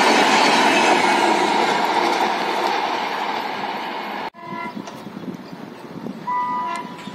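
Express train coaches passing close at speed, with a steady rush of wheel and rail noise that slowly fades. After an abrupt cut to a quieter, more distant scene, a train horn sounds briefly near the end.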